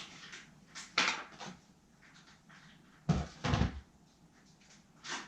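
A few separate knocks and clunks of hard objects being handled and set down, the heaviest two about three seconds in, close together.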